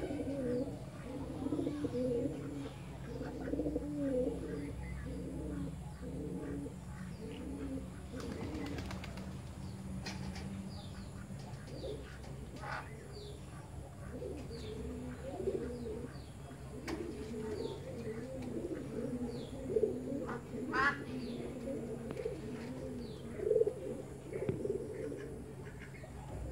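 Birds calling: a low, warbling cooing repeated over and over, with short high chirps from small birds scattered through the later part.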